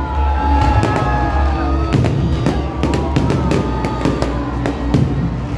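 Fireworks going off in quick, irregular bangs and crackles over loud music with a heavy bass.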